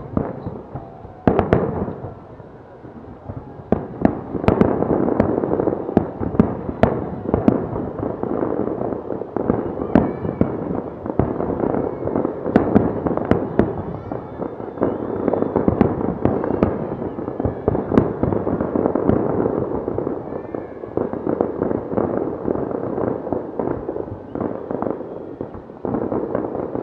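Fireworks display: a dense barrage of bangs and crackling, easing for a couple of seconds near the start, then building to a near-continuous volley.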